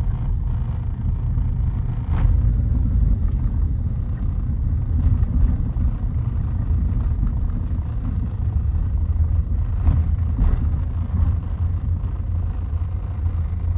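Steady low rumble, with a few faint brief knocks about two seconds in and again near ten seconds.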